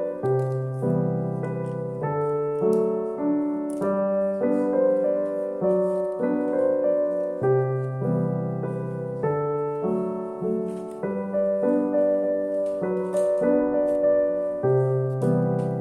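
Background music: a soft instrumental piano piece, notes and chords changing about every second.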